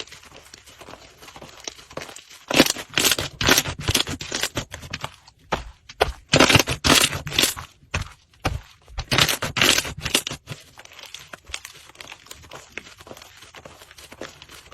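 Slime being squeezed and worked by hand, giving rapid sticky clicks and pops in three louder spells, with fainter clicking between.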